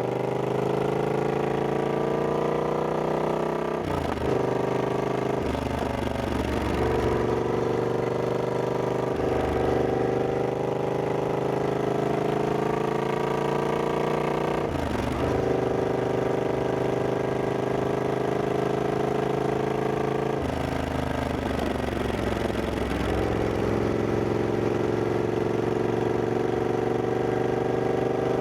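Triumph Scrambler 1200X's 1200 cc parallel-twin engine under way, revs climbing slowly as the bike pulls, broken by several gear changes where the pitch drops and builds again.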